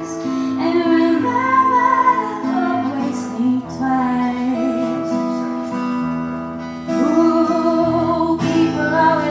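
Live singing, a woman's voice, over strummed acoustic guitar: a slow pop song.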